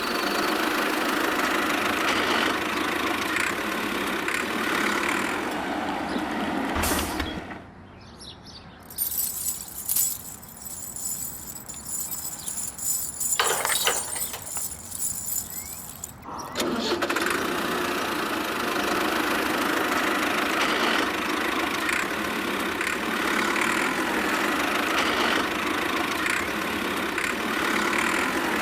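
Small motor of a miniature model tractor running with a steady drone. It cuts out after a thump about seven seconds in, leaving quieter sounds with one sharp click, then resumes abruptly about nine seconds later.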